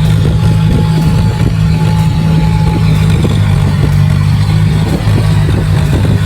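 John Deere 5055E tractor's diesel engine running steadily under load.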